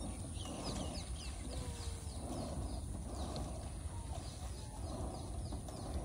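Birds chirping in a long run of short, falling notes, about two or three a second, over a steady low rumble.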